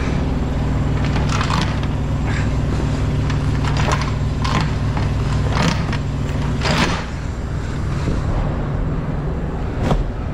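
Truck engine idling steadily, with short rustles and scrapes of a tarp and straps being handled, about seven of them.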